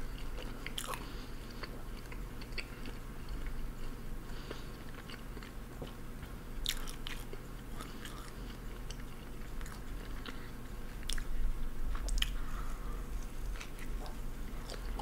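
Close-miked chewing and biting into a McDouble cheeseburger, with sharp wet mouth clicks scattered throughout. A steady low hum runs underneath.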